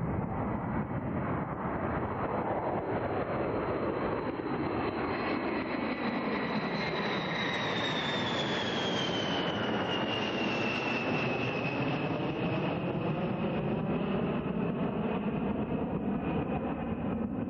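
Eight-engine B-52 Stratofortress jet bomber passing, its jet engines running loud and steady, with a high whine that slides down in pitch around the middle as it goes by.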